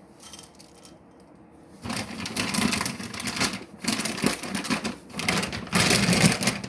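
Dry dog food rattling and clattering as it is scooped and poured into a dog bowl. The clatter starts about two seconds in and comes in several surges.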